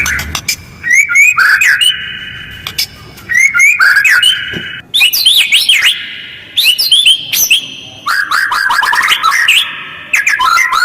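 White-rumped shama (murai batu) song: about six short bursts of harsh, fast chattering notes and trills, each about a second long, with short pauses between.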